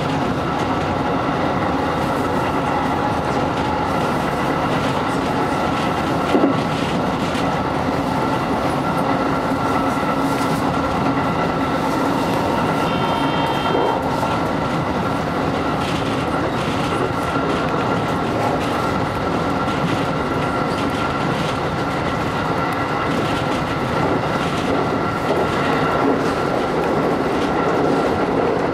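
Electric train running at speed, heard from behind the driver's cab: a steady rumble of wheels on rail with a steady whine and the clickety-clack of rail joints. There is a single louder thump about a quarter of the way in, and a brief high tone about halfway through.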